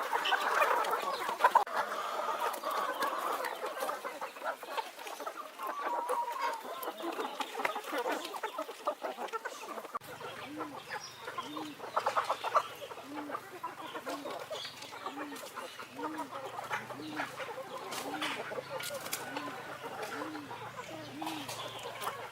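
Chickens clucking, with scattered short clicks and knocks. About halfway through, a faint regular pulsing of about one and a half beats a second and a low hum start abruptly.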